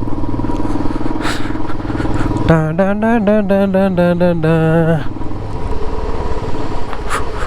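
Yamaha R15 V3's single-cylinder engine running steadily under the rider as the bike rolls over a potholed dirt road. About two and a half seconds in, a person's voice rises over it for a couple of seconds in a drawn-out, wavering sound, then stops.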